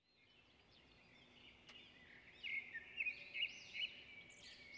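Faint birdsong: quick, repeated chirps that rise and fall in pitch, starting about a second and a half in after a near-silent start.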